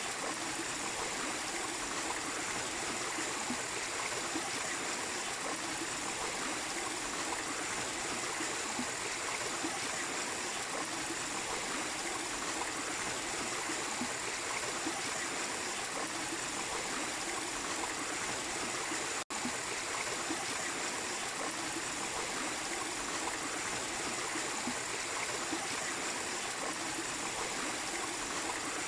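Small waterfall in a stream, water flowing and splashing steadily, with a split-second dropout about two-thirds of the way in.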